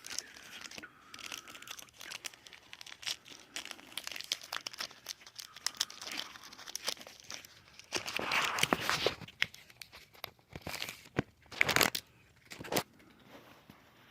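Pokémon TCG booster pack's foil wrapper being handled, crinkling and crackling, then torn open in two louder rips about eight and eleven seconds in.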